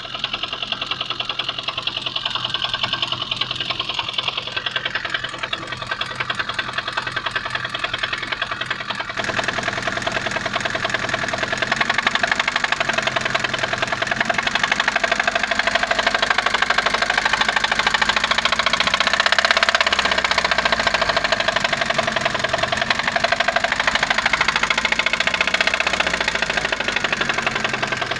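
Kia Picanto engine running with a fast, even ticking from the valve train, the tappet (lifter) noise. It gets louder about twelve seconds in, and the engine speed rises and falls a few times.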